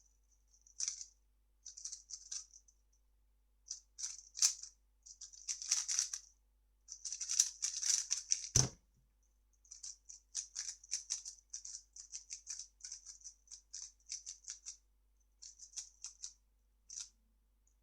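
A 3x3 speedcube being turned fast: bursts of quick plastic clicking as the layers turn, broken by short pauses, with a single low thump a little past halfway.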